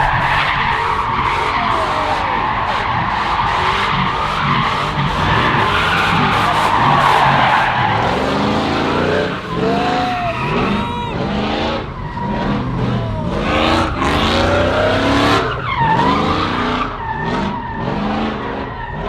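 A pickup truck spinning in circles, its tires squealing steadily for about the first half, then its engine revving up and down again and again with shorter squeals.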